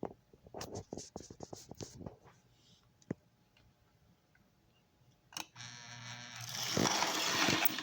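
Clicks of a small toy train locomotive being handled. Then, about five seconds in, the locomotive's small electric motor starts running with a steady hum, and a louder whirring buzz builds about a second later before it stops at the end.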